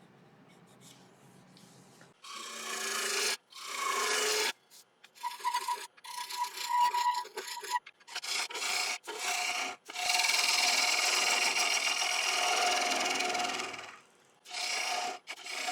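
A gouge with a 60-degree bevel cutting into spinning sycamore on a wood lathe, hollowing the inside of a bowl. After about two seconds of quiet, a string of short cutting passes comes with brief gaps between them, then one long cut of about four seconds. Some passes carry a steady ringing tone.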